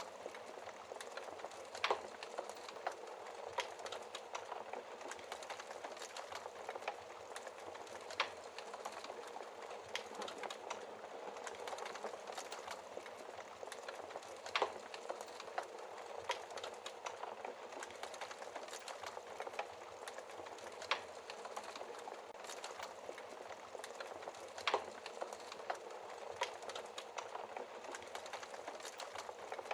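Log fire crackling in a fireplace: a steady hiss of burning wood with small snaps throughout and sharper pops every few seconds.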